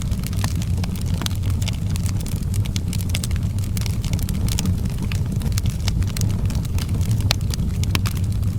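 Outdoor fireplace fire crackling, with many irregular sharp pops over a steady low rumble.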